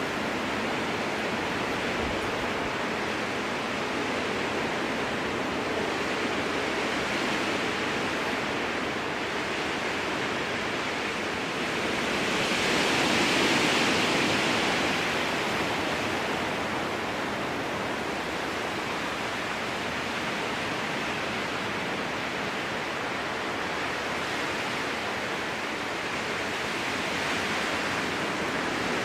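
Strong wind blowing through spruce trees, a steady rushing with one gust that swells about halfway through and dies back.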